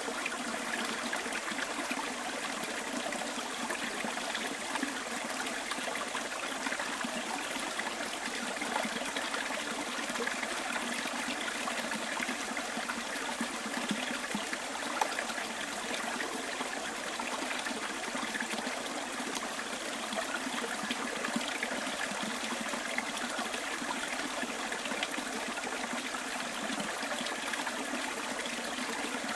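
Bush stream flowing and trickling steadily, an even wash of running water, with one faint tick about halfway through.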